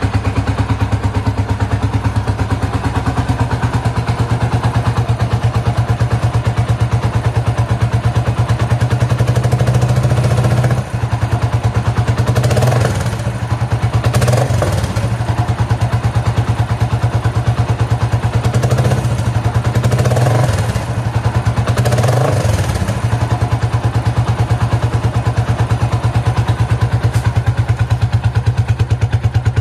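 Suzuki ST250's single-cylinder engine idling through a POSH Triumph-style aftermarket muffler, a steady exhaust beat, with several short throttle blips in the middle.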